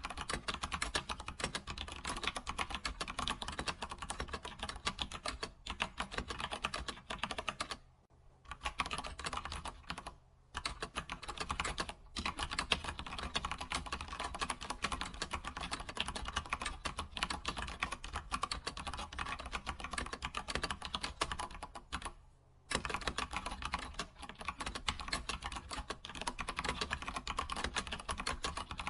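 Computer keyboard typing: a rapid, continuous run of keystrokes, broken by a few short pauses.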